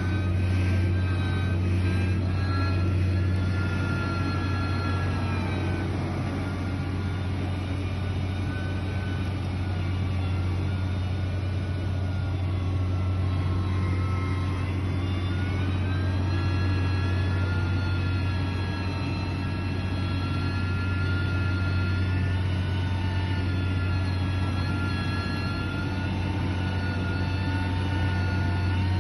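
Diesel engine of heavy construction machinery running steadily under load. The engine note drops about five seconds in and climbs again about fifteen seconds in as the revs change.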